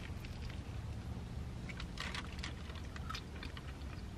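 Close-up chewing of a breaded fried mozzarella stick: scattered soft crunchy clicks, a cluster about two seconds in, over a low steady hum.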